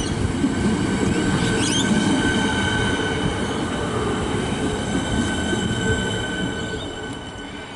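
Siemens Nexas suburban electric train at the platform, a low rumble with steady high-pitched whines from its equipment, fading over the last couple of seconds.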